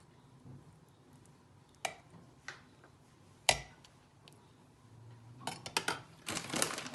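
A utensil knocking against a dish a few sharp times, the loudest about three and a half seconds in, then a quick run of clicks and scraping near the end, as white sauce is spooned over a lasagna layer.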